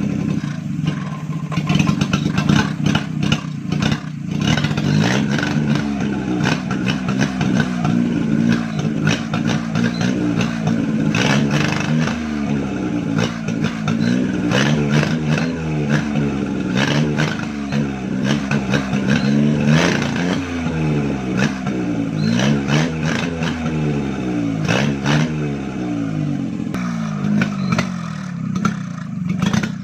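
Carburetted petrol car engine running out of the car on a gravity-fed bottle of petrol, its speed rising and falling again and again through the middle stretch, with scattered sharp clicks over the engine note.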